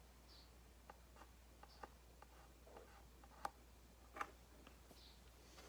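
Near silence: quiet room tone with a few faint, scattered clicks and ticks, two sharper ones about three and a half and four seconds in.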